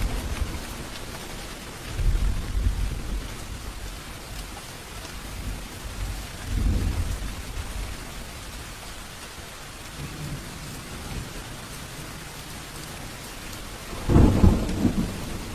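Steady heavy rain hissing, with thunder rumbling low three times: about two seconds in, again around seven seconds, and loudest near the end.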